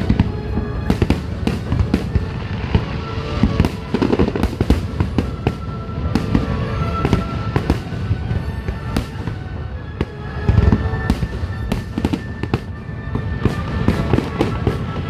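Fireworks display: a dense, continuous barrage of shell bursts, several sharp bangs a second overlapping one another, with a heavier cluster of booms about ten and a half seconds in.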